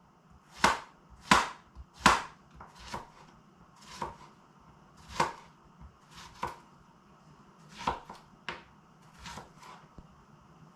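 Kitchen knife slicing squash thin: a string of sharp, uneven knife strikes, louder in the first two seconds and softer after.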